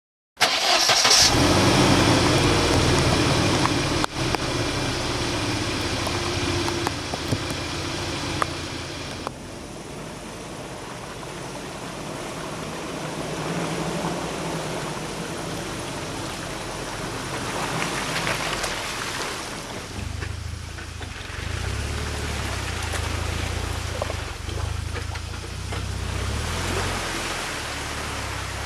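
UAZ Patriot SUV's engine running at low revs as it crawls over rough forest ground without throttle, with a couple of sharp knocks in the first ten seconds.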